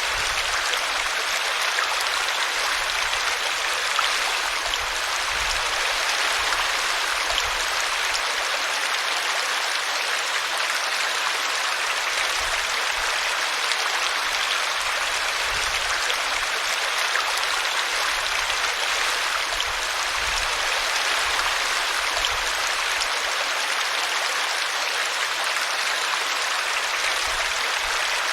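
Steady water noise: an even, unbroken hiss with nothing standing out from it.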